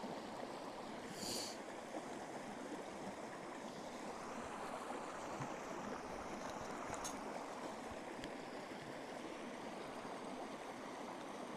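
Steady rushing noise, with a short high hiss about a second in and a few faint clicks later.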